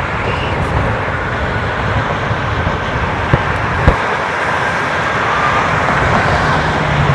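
Steady roar of freeway traffic, with two short sharp pops a little over half a second apart near the middle.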